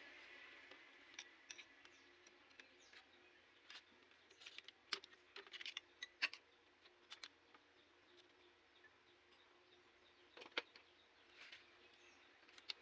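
Scattered light clicks and taps of hand tools and metal engine parts being handled, over a faint steady hum, with a cluster of them a few seconds in and a sharper knock about two thirds of the way through.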